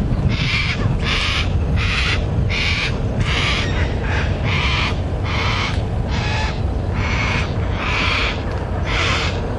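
Juvenile yellow-tailed black cockatoo giving its whinging, scratching begging call, a harsh rasp repeated about one and a half to two times a second without let-up. A steady low rumble runs underneath.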